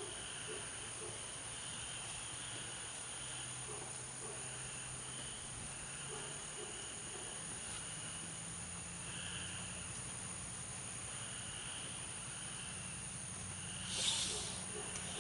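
Night insect chorus: a steady high-pitched drone with shorter chirping calls repeating every second or two. A brief, louder noise comes near the end.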